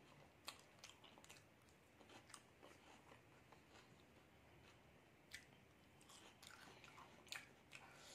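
Faint close-up chewing of a mouthful of egg devil, a breaded deep-fried egg chop, with a few short crisp clicks scattered through it.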